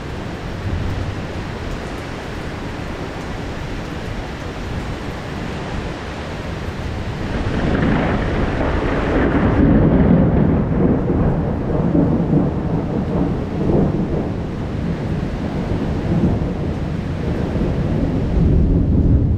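Heavy rain falling steadily, then a long rolling thunderclap about a third of the way in that rumbles on through the rest, swelling again near the end.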